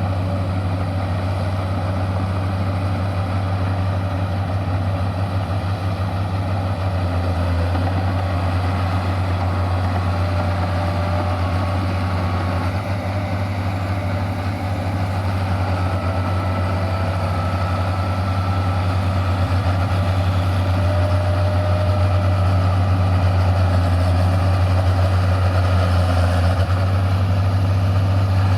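Tractor engines running steadily with a low, constant drone, working slightly harder near the end.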